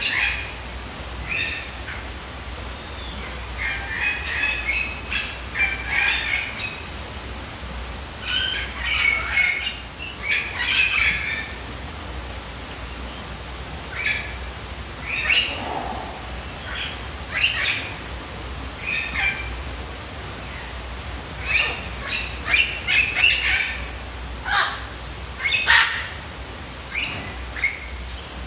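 Birds calling: short chirps and squawks in irregular clusters with brief pauses between them, over a steady low hum.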